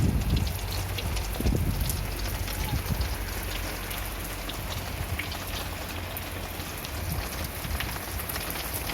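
Steady rain falling, many separate drops ticking over an even hiss of rain. There are a couple of low rumbles in the first two seconds.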